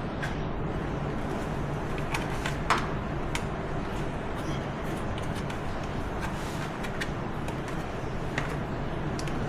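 Scattered light clicks and taps of small metal hardware being handled and sorted while hunting for a spare collar, over a steady low hum.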